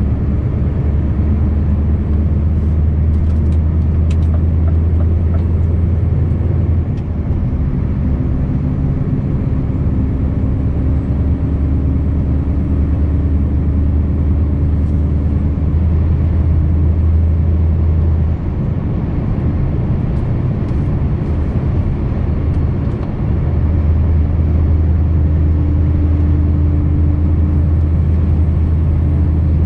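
Scania V8 truck engine and road noise heard inside the cab while driving: a steady low drone that eases off briefly about seven seconds in, again around eighteen seconds and around twenty-three seconds.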